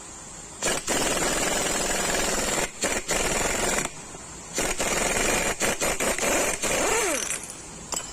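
Impact wrench rattling in several loud bursts with short gaps, loosening the 30 mm pinion nut on a differential; it winds down with a short falling whine near the end.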